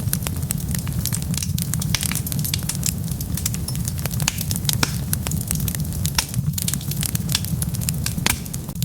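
Wood fire burning, a steady low rumble under many sharp, irregular crackles and pops.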